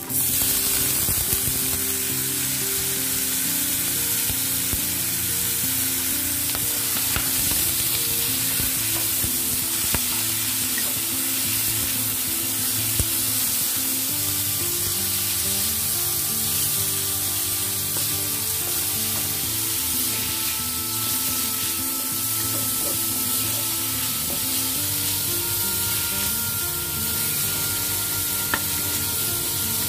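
Fresh wood ear mushrooms frying in hot oil with minced garlic in a wok: a steady sizzle with the scrape of a wooden spatula stirring them.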